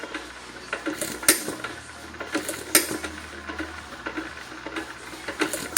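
John Deere 1½ hp single-cylinder hit-and-miss engine running, with a quick, even metallic clicking from its works and three louder sharp cracks spread through.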